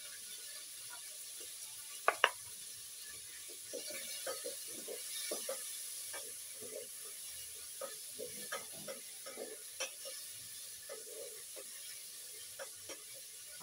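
Onion frying in oil in a metal sufuria, a steady sizzle. Over it, a run of clinks and knocks of utensils and containers at the pot, the two sharpest about two seconds in.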